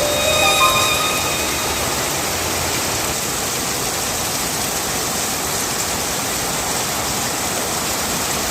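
Steady rain falling, an even hiss that holds its level throughout. A few held tones ring over it and die away about a second in.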